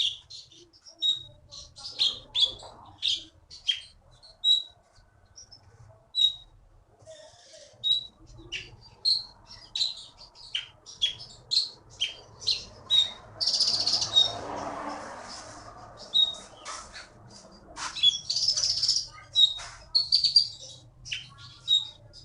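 Konin songbird singing continuously in a run of short, sharp, high chirps, with a denser burst of song about halfway through and again near the end.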